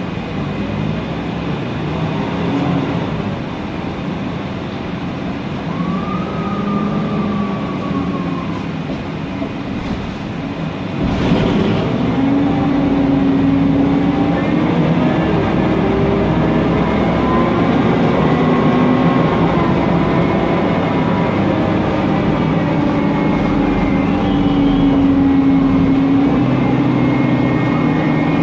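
Mercedes-Benz Conecto NGT city bus under way, heard from on board: its turbocharged CNG engine and cooling fan run steadily, with whining tones from the Voith DIWA automatic gearbox rising and falling in pitch. A knock comes about a third of the way in, and the drive noise is louder after it.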